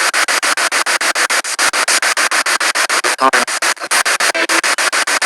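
Spirit box radio sweeping through stations: a rapid, choppy static of about ten pulses a second, with a brief snatch of a voice from a station about three seconds in.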